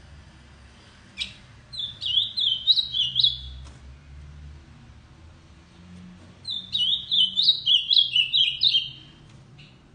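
Ultramarine grosbeak (azulão) singing two quick warbled song phrases, each about two seconds long. The first comes just under two seconds in and the second past the halfway mark, with a single sharp note before the first.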